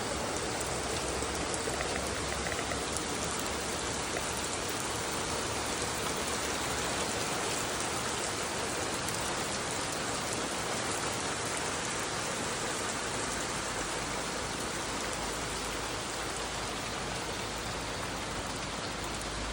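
Heavy rain falling, a steady even hiss that starts suddenly just before and holds without change.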